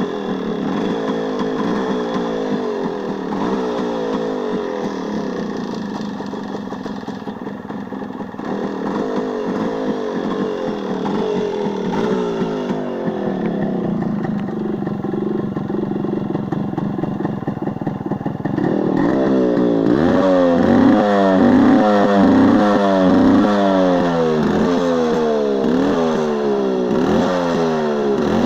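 Yamaha RX135's two-stroke single-cylinder engine running with its pitch rising and falling. From about two-thirds of the way in it is revved louder, up and down repeatedly.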